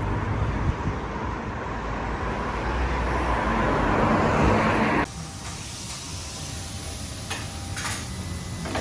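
Road vehicle noise: a steady hiss and low rumble that swells slightly, then cuts off abruptly about five seconds in, leaving a quieter background.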